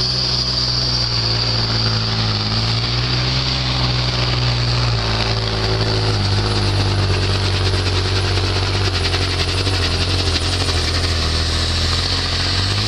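Competition pulling truck's diesel engine running hard under full load as it drags the weight-transfer sled, with a steady high whine above it. The engine note steps down about halfway through as the load builds.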